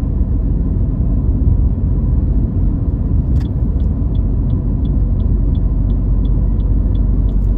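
Steady low rumble of a car's engine and tyres on the road, heard from inside the cabin. About three and a half seconds in there is a click, followed by the turn-signal indicator ticking about three times a second.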